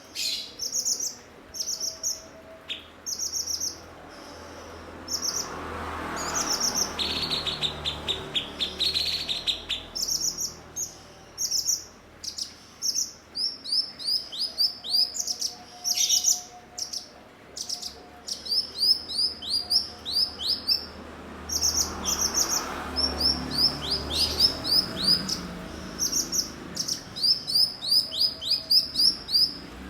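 Cucak cungkok singing: a long, busy run of short, high chirps and quick strings of down-slurred notes, repeated over and over.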